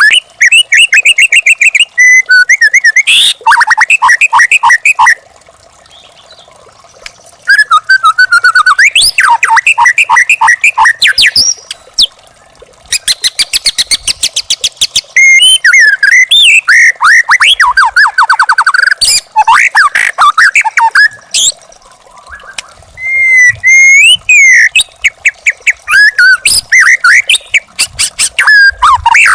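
Young wild white-rumped shama singing: loud bursts of rapid whistled and chattering phrases, broken by two short pauses.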